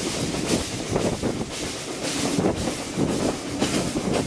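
Heritage passenger train running along the line, heard from an open coach window: the wheels clatter over the rails with a rhythmic pulse about twice a second.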